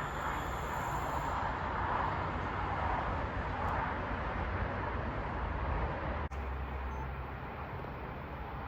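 A passing train: a steady rush of wheel and rail noise with a low rumble. About six seconds in it cuts off abruptly to quieter outdoor background noise.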